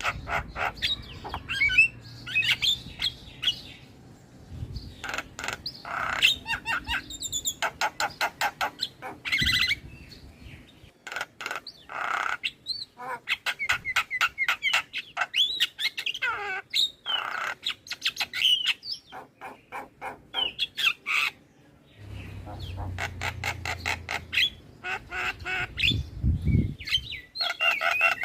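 Javan myna singing a long chattering song: fast runs of repeated clicking notes mixed with harsh squawks and short whistled slurs.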